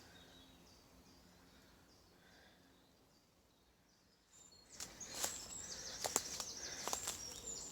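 Faint outdoor ambience with a small bird calling, a short high chirp repeated about every half second. About four and a half seconds in, louder sharp clicks and rustling begin, with busier bird song over them.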